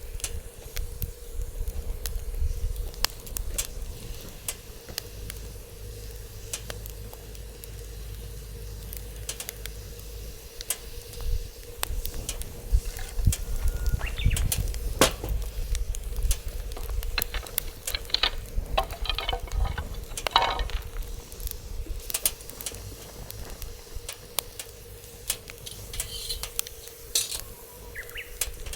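Wood fire crackling in a steel fire pit, with irregular sharp pops and snaps throughout. Wind rumbles on the microphone underneath.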